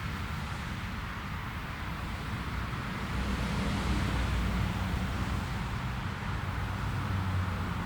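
Jet airliner engines: a steady rumble and hiss that swells slightly about three seconds in.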